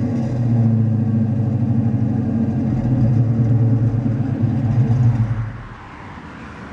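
Ford Mustang 5.0 V8 running through a Flowmaster exhaust, holding a steady low note after a rev. The sound drops off sharply about five and a half seconds in.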